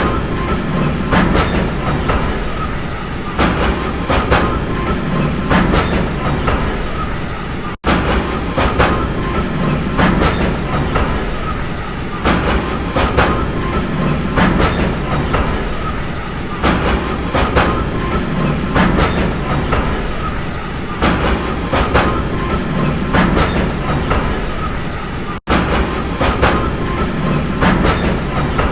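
Train running along the track, its wheels clacking over rail joints in clusters about every two seconds over a steady rumble. The sound cuts out for an instant twice.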